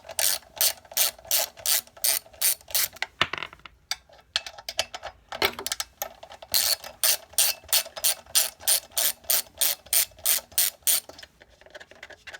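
Socket ratchet clicking in an even run, about three clicks a second, as 10 mm bolts are backed out of a two-stroke generator. The clicking loosens into a few scattered clicks about three seconds in, then picks up again in a second even run that stops about eleven seconds in.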